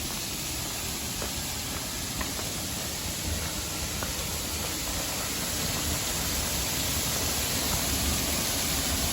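Waterfall running full after rain: a steady rush of falling water that grows a little louder in the second half.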